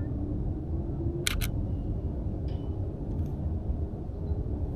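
Canon EOS RP's shutter firing: two sharp clicks in quick succession about a second in, over a steady low rumble.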